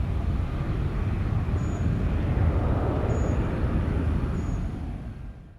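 Jet airliner engines on departure, a steady deep rumble with a rushing hiss above it, which fades quickly to silence right at the end.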